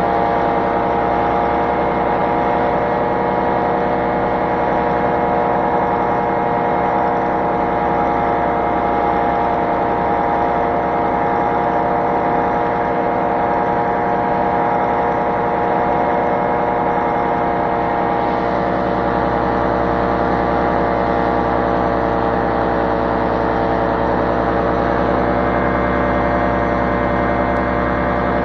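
Small engine of a powered ultralight aircraft running steadily at a constant throttle, a continuous even drone.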